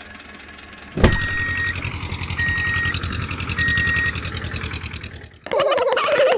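A click, then a tractor-style engine starting and idling with a steady low chugging, three short high beeps sounding over it. About five and a half seconds in the engine stops and a voice takes over.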